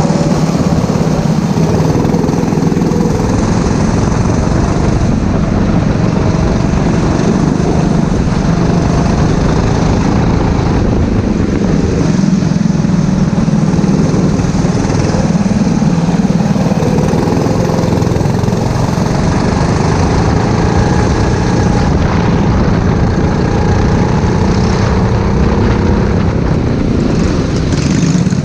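Go-kart engine running hard at racing speed, its pitch rising and falling as the kart accelerates and slows through the corners.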